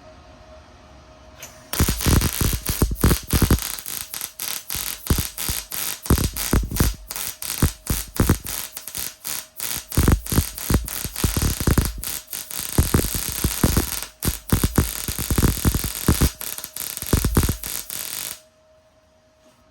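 MIG welding arc crackling steadily as a bead is run on 14-gauge metal. It starts abruptly about two seconds in and cuts off sharply a little before the end, when the trigger is released.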